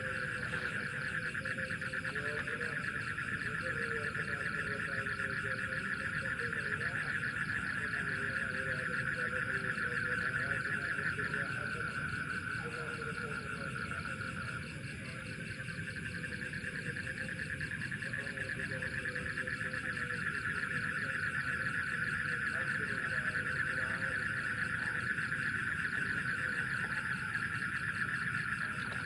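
Night chorus of insects such as crickets: a steady high-pitched drone, with frogs calling now and then in lower, wavering notes.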